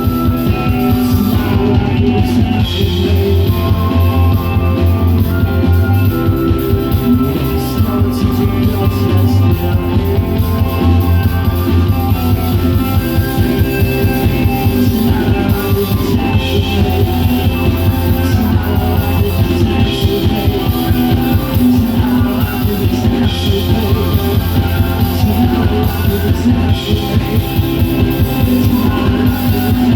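Rock band playing live, with guitar and drum kit over a steady beat.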